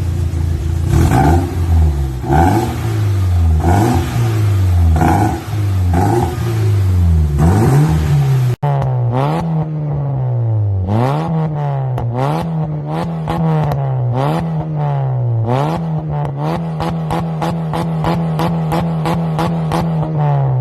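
Engine revved again and again through an HKS aftermarket exhaust muffler, the note rising and falling with each blip. After a cut about eight seconds in come quicker revs with a rapid crackle over the exhaust note. Near the end it is held at a higher pitch, then drops away.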